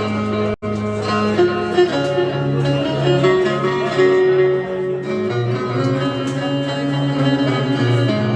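Instrumental music played by plucked and bowed strings, with a bass line stepping between notes. The sound cuts out for an instant about half a second in.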